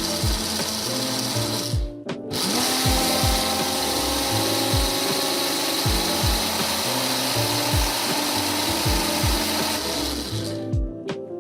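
Electric blender running and puréeing strawberries, banana and milk; it stops for a moment about two seconds in, then starts again and runs steadily until it cuts off near the end. Background music with a steady beat plays underneath.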